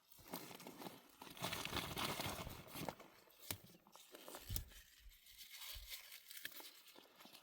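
Plants being handled and picked: leaves and stems rustling and tearing, with a few sharp snaps. The rustling is loudest in the first half.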